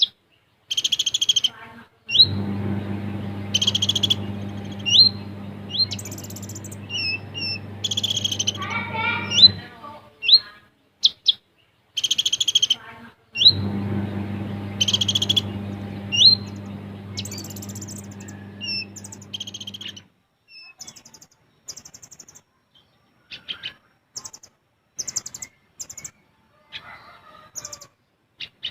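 Kolibri ninja (a sunbird) singing: quick, sharp rising chirps mixed with short, dense buzzing trill bursts, repeated throughout. For two stretches of several seconds a steady low hum runs under the song, and near the end the calls thin to scattered chirps.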